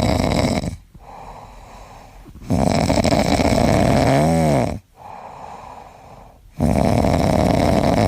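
A pet snoring loudly: three long, rough snores about three and a half seconds apart, with quieter breaths between them. The middle snore ends in a short whistling note that rises and falls.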